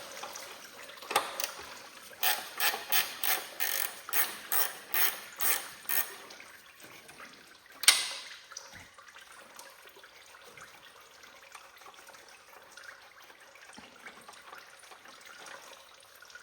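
Ratchet wrench clicking through a run of about ten quick, even strokes as a bolt is worked loose, then one sharp metallic click a couple of seconds later.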